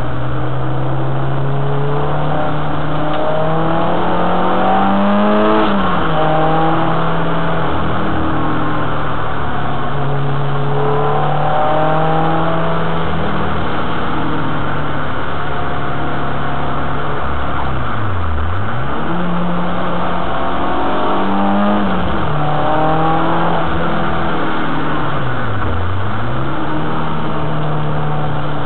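Renault Clio 2 RS's 2.0-litre four-cylinder engine under hard acceleration on a circuit, its pitch climbing through each gear and dropping at each shift. Twice near the end the revs dip sharply and climb straight back.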